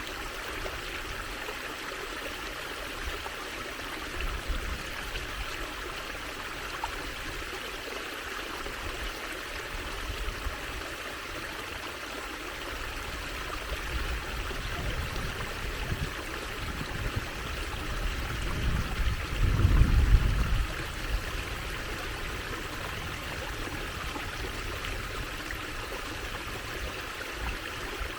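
Water trickling and running steadily, like a small stream. A low rumble swells for a couple of seconds about two-thirds of the way through.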